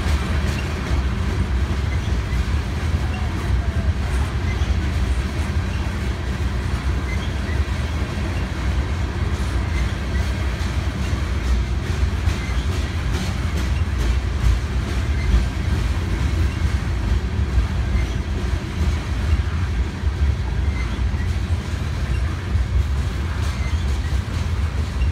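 Freight train of tank cars rolling past on the rails: a steady low rumble with a quick run of clicks as the wheels pass over the rail joints.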